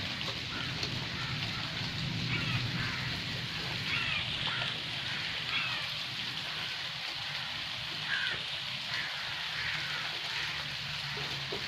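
Steady rain falling on a forest, a constant even hiss, with short bird calls breaking through now and then and a low rumble underneath.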